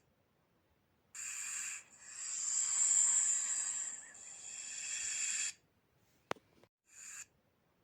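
Snake hissing in separate bursts: a short hiss about a second in, a long hiss from about 2 s that swells and then fades, and a brief one near the end, with a sharp click between them.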